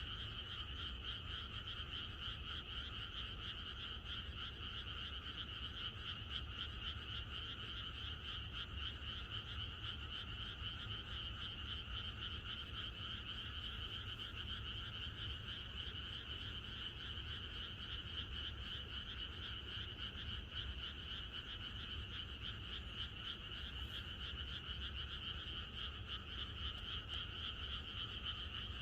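A chorus of many frogs calling at once, a steady, unbroken wall of rapid pulsing calls with no pauses.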